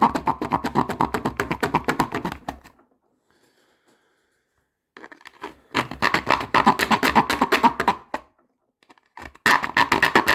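Rapid rasping of a serrated knife blade sawing back and forth through material, the serrations catching in a fast run of clicks. It comes in three spells: one that stops just under three seconds in, another from about five to eight seconds, and a third starting near the end.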